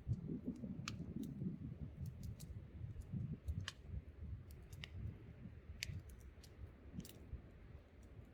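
Wood campfire crackling, with irregular sharp pops and snaps over a low, fluctuating rumble of wind and flame.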